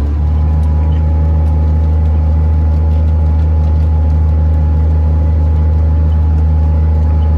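Tractor engine running steadily under way, a constant low drone that does not change.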